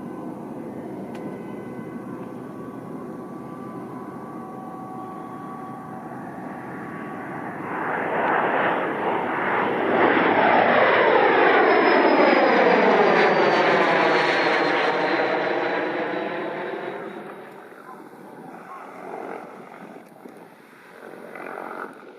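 Jet airliner passing close by: the engine sound builds up, peaks for several seconds, then fades, with a high engine whine that drops in pitch as the aircraft goes past.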